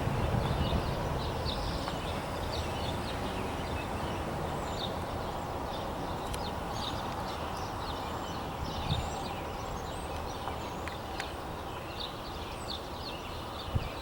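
Low rumble of a passing train slowly fading as it moves away, while small birds chirp repeatedly.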